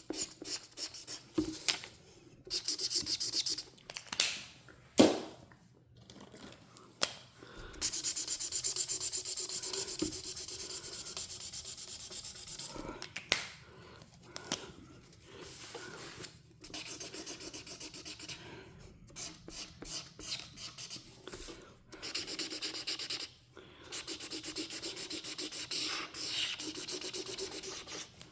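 Felt-tip marker tip rubbing across paper in quick back-and-forth coloring strokes, in spells of several seconds with short pauses between. A few sharp clicks cut in, the loudest about five seconds in.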